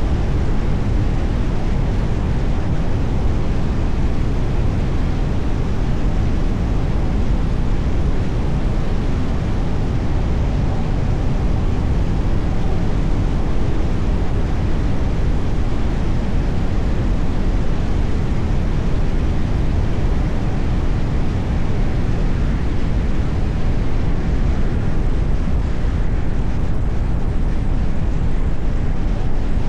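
Steady road and wind noise of a car driving, heaviest at the low end, with no distinct engine note or other event standing out.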